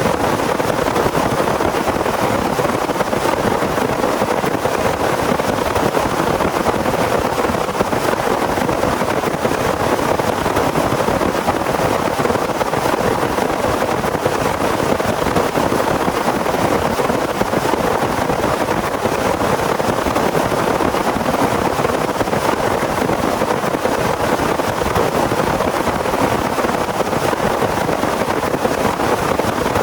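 Heavy rain falling: a loud, steady, even hiss with no breaks or thunderclaps.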